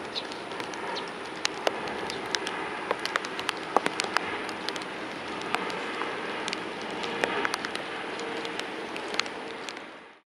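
Rain falling steadily, a continuous hiss with many irregular sharp drop ticks close by. The sound fades out near the end.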